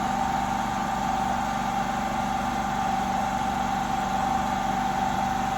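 Steady mechanical hum with a constant high-pitched whine over it, running evenly without change.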